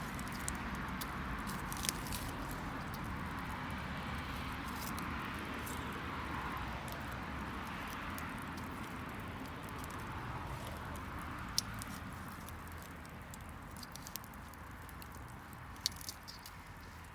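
Wood fire burning: a steady hiss with scattered sharp crackles and pops from the burning wood.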